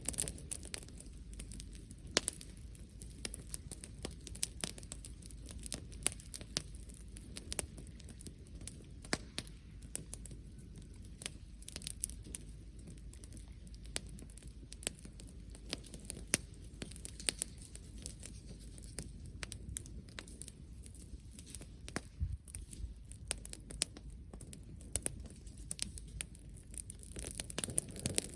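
Bonfire crackling, with irregular sharp pops and snaps throughout over a low rumble.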